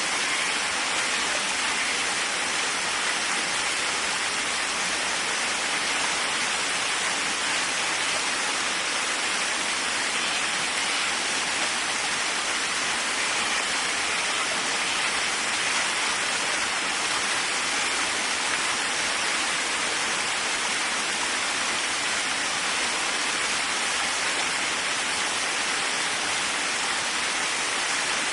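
Waterfall: water falling steadily with an even hiss.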